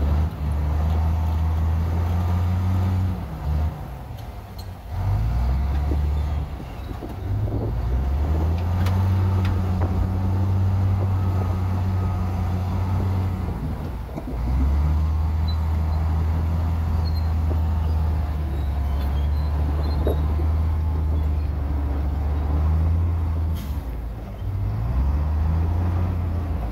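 Heavy diesel engine of earthmoving machinery running, with a low drone whose pitch steps up and down several times, dipping around the third to fifth second and again near the end.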